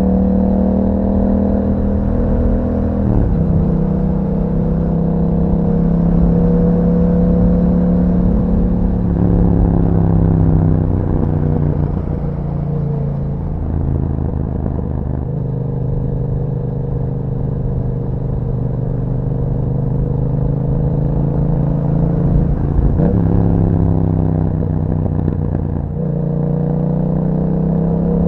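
Yamaha MT-07 parallel-twin engine running through an Akrapovic exhaust while riding, a steady note that breaks and changes pitch several times as gears are shifted.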